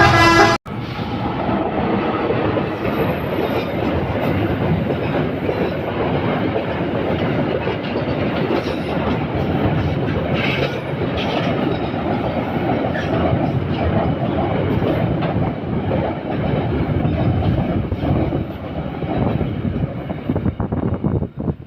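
Train running past: a steady rumble and clatter of its wheels on the rails. It begins after a horn-like tone is cut off abruptly about half a second in, and eases off near the end.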